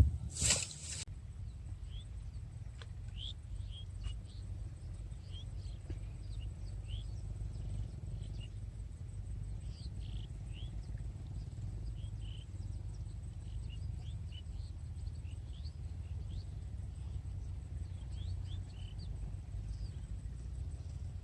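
Birds chirping, short high calls scattered irregularly throughout, over a steady low rumble. A brief loud noise sounds about half a second in.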